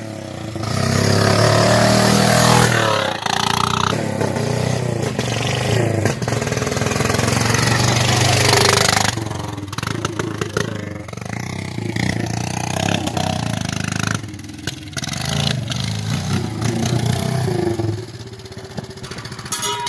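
Straight-piped Honda 300EX ATV's single-cylinder four-stroke engine revving and running with no muffler, loud with rising and falling revs for the first half, then running lower and quieter, easing off further near the end.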